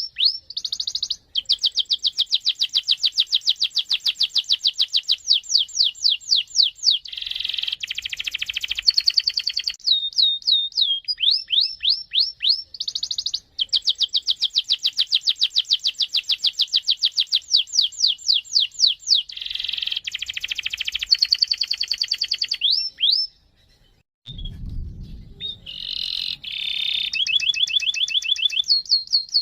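Domestic canary singing long rolling trills: runs of very fast repeated notes alternating with down-sweeping chirps. The song breaks off briefly a little past twenty seconds, where a dull low thump is heard, then resumes.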